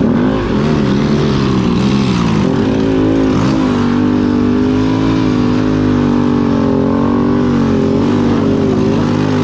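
A vehicle engine running. Its pitch dips and climbs a few times in the first three seconds, then holds fairly steady.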